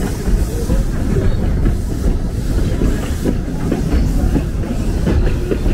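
Puffing Billy narrow-gauge steam train's carriage rolling along the track: a steady low rumble with small, irregular knocks from the wheels on the rails.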